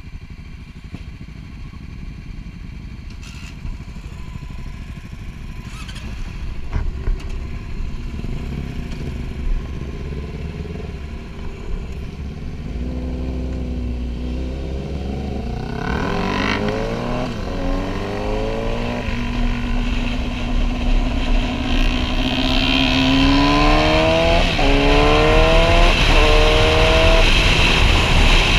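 Yamaha sportbike's inline-four engine idling, then pulling away and accelerating through several gears. The revs climb and drop back at each upshift, and wind rush builds as speed rises.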